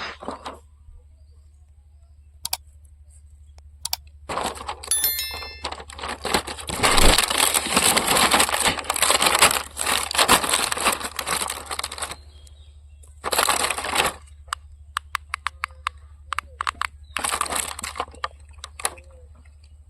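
Rustling, crinkling and tearing sounds, like packaging being handled, in several long bursts, with scattered sharp clicks and a quick run of clicks near the end.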